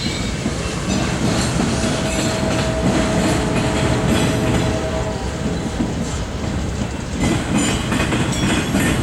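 Autorack freight cars rolling past at track side, a steady rumble with wheels clicking over the rails. A thin steady whine rises out of it for a few seconds in the middle.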